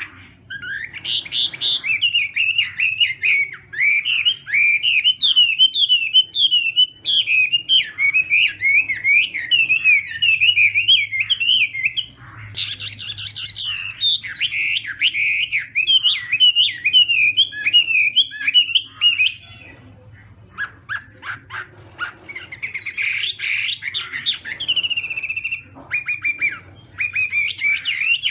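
Chinese hwamei singing a long run of fast, varied warbling phrases. The song briefly breaks into short separate notes about two-thirds of the way through, then picks up again.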